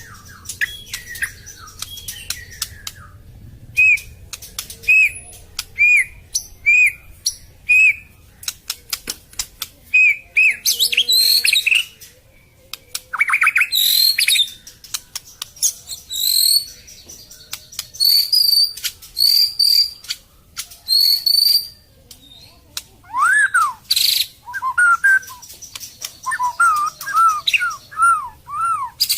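White-rumped shama (murai batu Medan) singing a long, varied song full of 'isian' fill phrases borrowed from other birds. It mixes rapid clicking rattles, a run of short arched whistles about one a second, higher sharp whistles, and falling whistled notes near the end.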